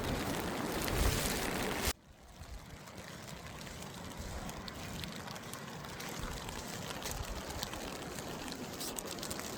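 Steady rushing noise of wind and water at the shore, which drops off abruptly about two seconds in and carries on as a quieter wash.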